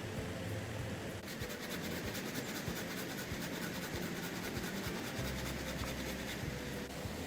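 Steady rasping scrape on wood, a fast even run of strokes that starts about a second in.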